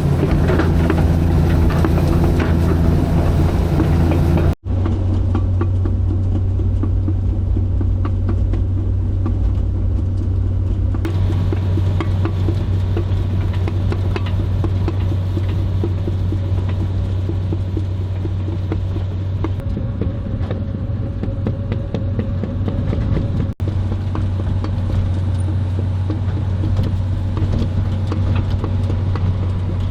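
Caterpillar 315B excavator's diesel engine running steadily with a deep, even hum. The sound cuts out for an instant twice, about four and a half seconds in and again about twenty-three seconds in.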